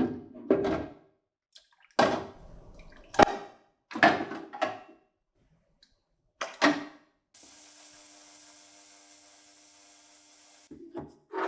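Several short knocks and clatters of hard parts being handled. These are followed by a steady hiss with a low hum underneath, lasting about three seconds and cutting off suddenly.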